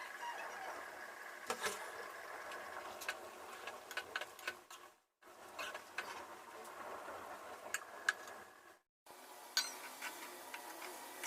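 Scattered light clicks and clinks of kitchen utensils against cookware over a faint steady hiss. The sound cuts out abruptly twice, about five and nine seconds in.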